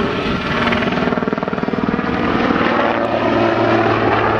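Aircraft flying past: a loud, steady engine drone with low humming tones and a stretch of rapid pulsing.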